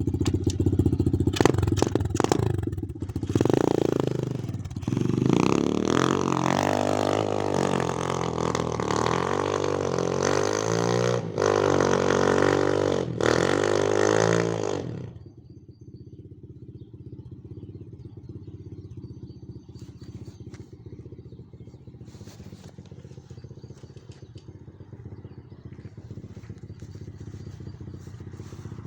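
X-Motos 125 cc motorcycle engine revving up and down hard, its pitch rising and falling. About fifteen seconds in it drops suddenly to a much quieter, steady low running note.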